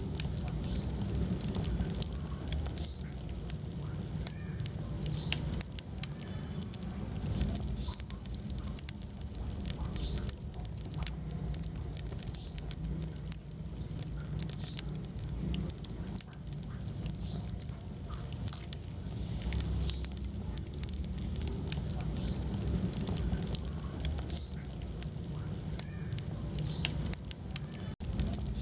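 Wood fire burning in a fireplace, with irregular crackles and pops over a steady low rumble of flame. The sound drops out briefly near the end.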